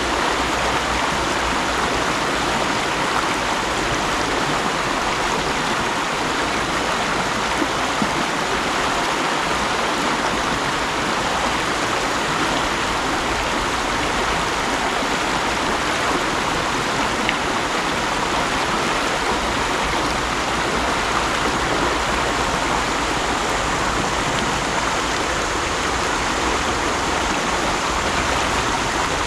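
Mountain stream flowing and splashing over rocks in a steady, unbroken rush.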